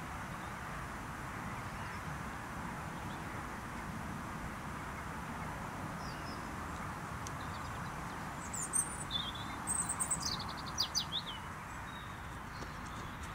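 A small songbird gives a few quick, high chirps and a short rapid trill, between about eight and a half and eleven and a half seconds in, over a steady outdoor hiss.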